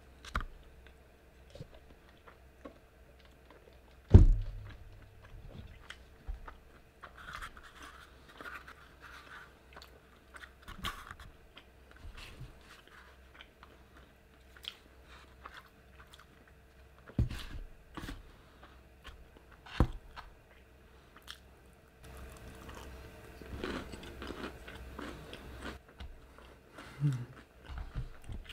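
Close-miked eating: a person biting, crunching and chewing crunchy fried food, with many short crackles and smacks. A loud thump comes about four seconds in, and a faint steady hum runs underneath.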